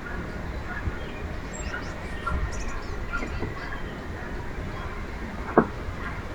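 Small birds giving short, scattered chirps over a steady low background rumble, with one sharp click a little over five seconds in.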